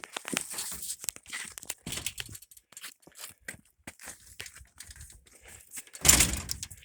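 Irregular crackling and rustling with scattered small clicks, then one louder rustling scrape about six seconds in, like close handling or crinkling of material near the microphone.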